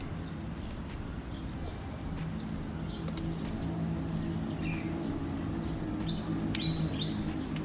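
Small birds chirping a few short high notes in the second half, over a steady low hum, with two sharp clicks.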